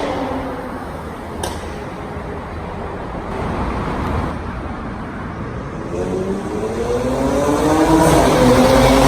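Mercedes-AMG GLE43's twin-turbo V6 through its stock exhaust, settling back to a low idle rumble, then revved up from about six seconds in, the pitch rising and held high near the end. A short click about one and a half seconds in.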